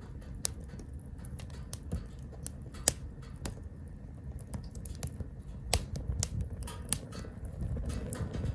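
Firewood burning in a Captain Stag Kamado Smart Grill B6, crackling with irregular sharp pops over a low steady rumble; the loudest pop comes about three seconds in.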